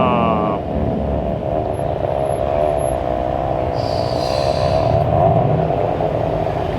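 Car engines running with a steady low rumble. One engine winds down in pitch during the first half second.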